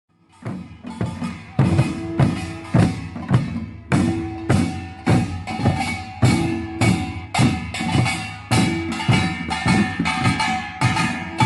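Korean samul nori percussion ensemble of drums and gongs playing a driving gilnori rhythm, with strong beats a little under twice a second. It fades in just after the start.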